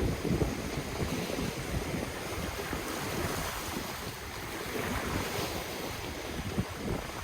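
Ocean waves washing on the shore in a steady hiss that swells and eases, with wind buffeting the microphone in irregular low rumbles.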